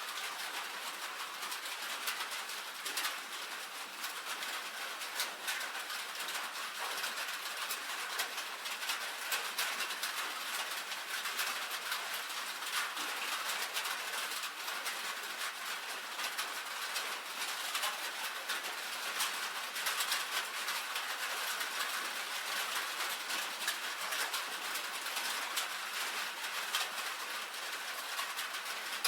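Rain falling on a tin roof: a steady, dense patter of individual drops ticking on the metal.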